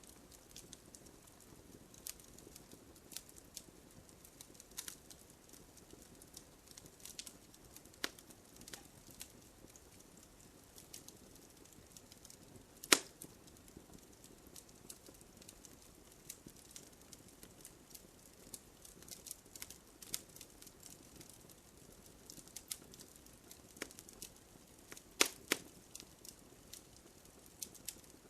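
Wood campfire crackling, with scattered sharp pops of burning wood; one much louder pop comes about halfway, and two more close together near the end.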